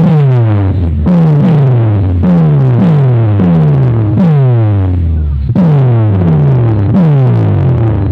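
Loud electronic dance music played through a large DJ speaker-box system, its deep bass notes sliding down in pitch about twice a second, with a short break about five seconds in.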